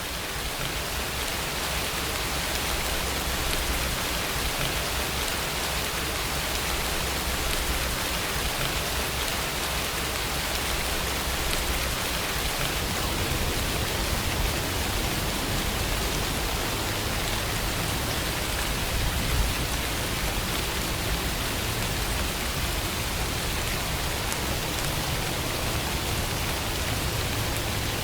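Steady rainfall: an even, unbroken hiss of rain with a low rumble beneath it.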